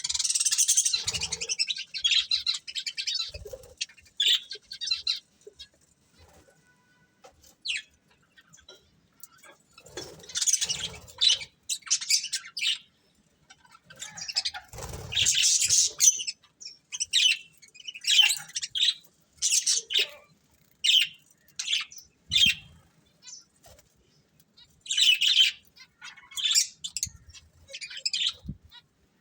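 Pet budgerigars chirping and chattering in quick, high bursts, with a quiet spell of a few seconds about a fifth of the way in before the chirping picks up again.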